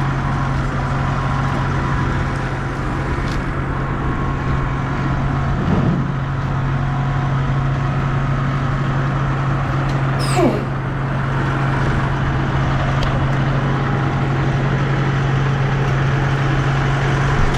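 A motor vehicle's engine running steadily with a constant low hum. About ten seconds in, a brief squeal falls quickly from high to low.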